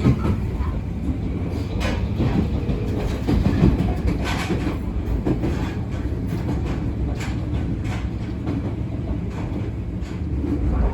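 Abukuma Express 8100 series electric train running, heard from on board: a steady low rumble of wheels on rails, with a few sharp clacks as the wheels cross rail joints.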